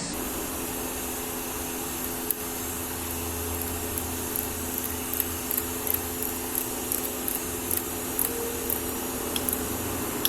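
A motor running steadily with a humming tone, joined from about four seconds in by irregular sharp clicks.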